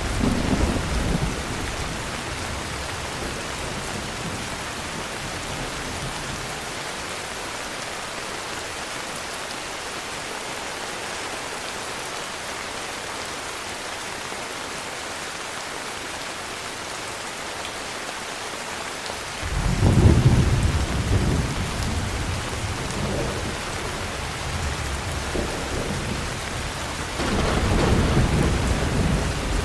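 Heavy rain falling steadily, with rolling thunder. A rumble dies away at the start, a sudden loud clap and rumble breaks about two-thirds of the way through and rolls on, and another rumble builds near the end.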